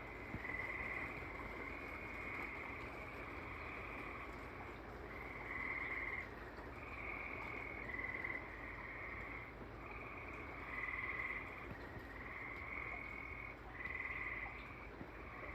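A chorus of tree frogs trilling, overlapping calls each about a second long following one another without a break, over the steady hiss of rain.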